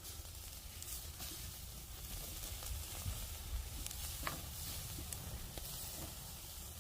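Whole rack of pork ribs sizzling as it roasts over a campfire, with a few scattered sharp crackles.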